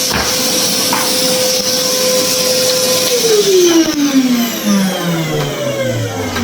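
Henry vacuum cleaner's motor running steadily, then switched off about three seconds in, its pitch falling smoothly as the motor winds down.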